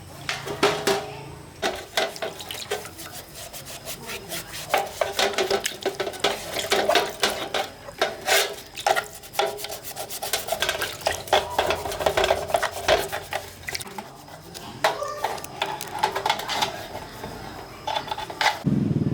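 Irregular scraping, rubbing and clinking of metal, like hand tools working on small engine parts, with many short knocks at an uneven pace.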